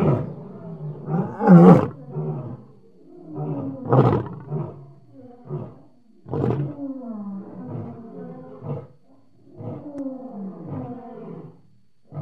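Lion roaring: a series of deep calls, each falling in pitch. The loudest come in the first few seconds, and the later calls are weaker.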